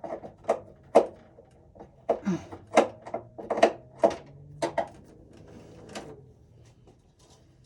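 Irregular sharp clicks and knocks of hand work on wiring in an electrical breaker panel, about a dozen over six seconds, then quieter.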